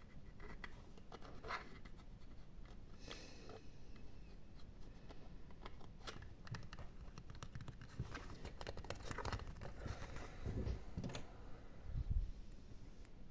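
Close-miked ASMR scratching and gripping: irregular fingernail-like scratches and small clicks on an object, with a few low thumps near the end, the loudest about 12 seconds in.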